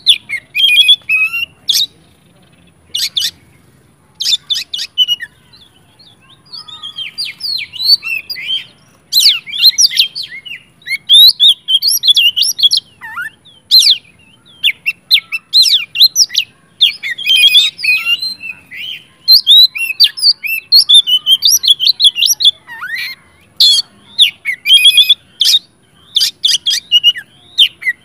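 Oriental magpie-robin (kacer) singing loudly: a fast, varied run of whistled phrases mixed with sharp, harsh clicks, in bursts broken by short pauses, growing busier after the first several seconds. It is the full, aggressive song that bird keepers use to rouse other magpie-robins to sing.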